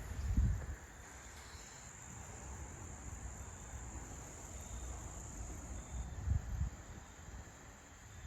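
Crickets trilling steadily at a high pitch. Two brief low rumbling bumps, one right at the start and one about six seconds in, sit under it.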